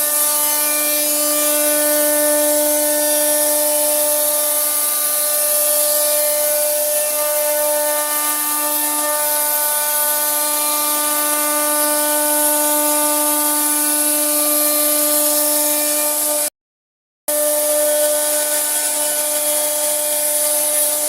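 A power tool working wood, its motor running at a steady, unchanging pitch with a constant whine and hiss; the sound drops out completely for under a second about three-quarters of the way through, then resumes the same.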